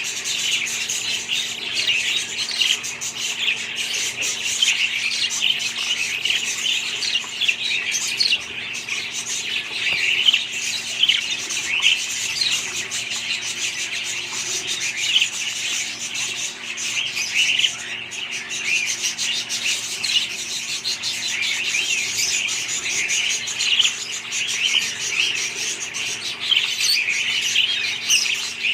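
A flock of budgerigars chirping and chattering together: a dense, continuous twitter of many overlapping short calls.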